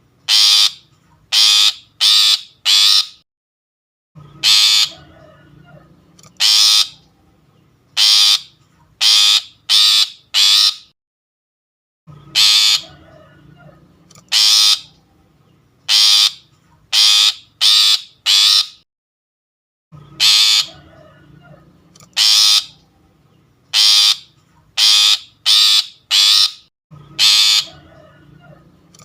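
Long-tailed shrike (pentet) lure recording: harsh, rasping calls in bursts of four or five. The same pattern repeats about every eight seconds, as a looped bird-catching lure call.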